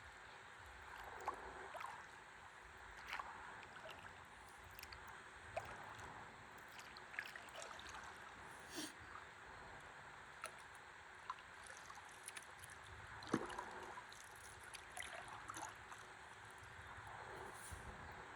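Quiet river water lapping and gurgling around a stand-up paddleboard, with small irregular splashes and drips every second or two.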